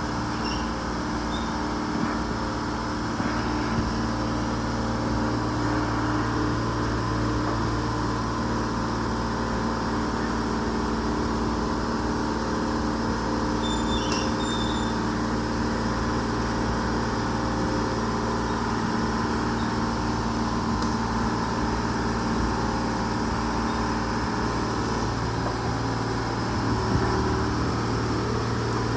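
A 125B excavator's diesel engine running at a steady, unchanging pitch as the machine travels slowly in its only working gear.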